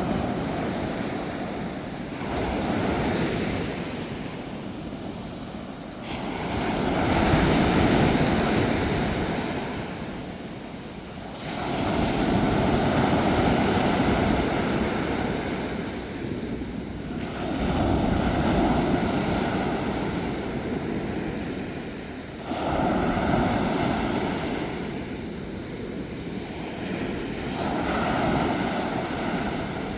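Sea waves breaking and washing up a shore, each one surging in and fading back, about one every four to five seconds.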